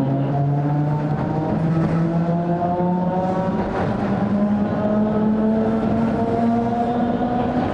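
Traction motors and gearing of a 270-series 762 mm narrow-gauge electric train whining, several tones climbing slowly in pitch as the train gathers speed, over a steady rumble of wheels on rail.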